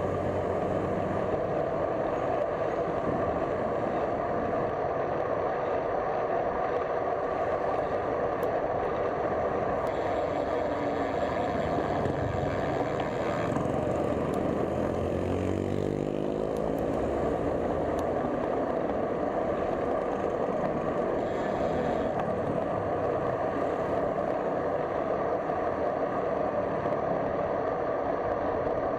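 Steady road and traffic noise heard while riding a folding bike along a road. A motor vehicle passes close about halfway through.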